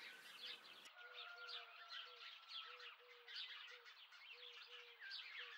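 Faint birdsong: quick high chirping with a string of short, low, repeated call notes, two or three a second, coming in about a second in.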